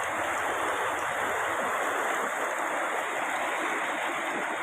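Steady rushing of running water, as from a stream, holding an even level throughout.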